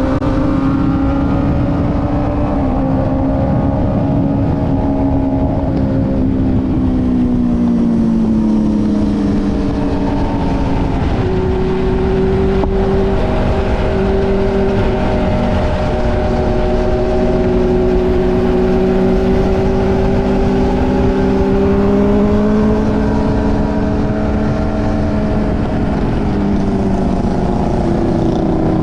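A motorcycle engine running steadily while riding, its pitch slowly falling and rising with small changes of speed, over a heavy low wind rumble.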